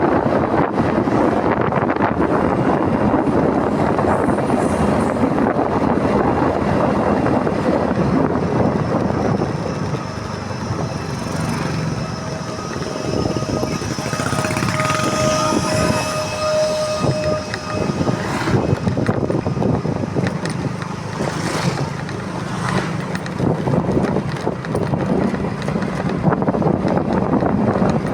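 Motorcycle on the move: wind rushing over the microphone along with engine and road noise, easing off about ten seconds in. A brief steady high tone sounds around the middle.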